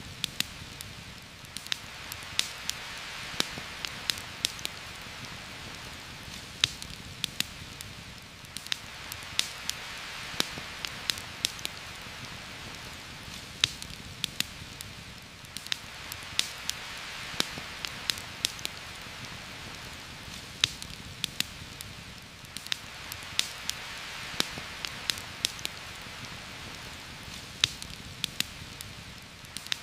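Heavy rain falling steadily on forest leaves, a dense hiss that swells and eases every seven seconds or so, with frequent sharp clicks of drops or fire crackle scattered through it.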